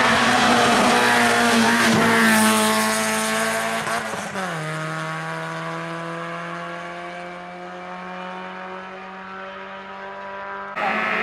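Fiat Tipo 2.0 16V's four-cylinder engine racing past at high revs, its pitch falling as it goes by. About four seconds in, an upshift drops the revs sharply, and they then climb again as the car pulls away and fades. Near the end the sound cuts abruptly to the engine loud again.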